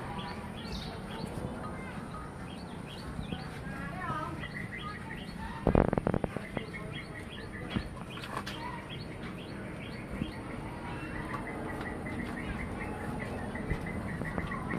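Small birds chirping repeatedly in short, high calls, with a brief cluster of loud knocks about six seconds in.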